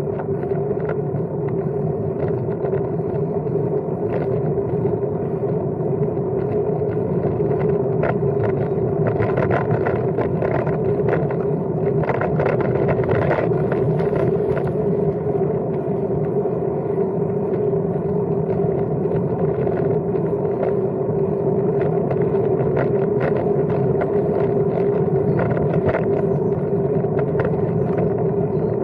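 Steady rolling noise from a Brompton folding bike being ridden: a continuous drone from the tyres on the path, with a run of light clicks and rattles around the middle.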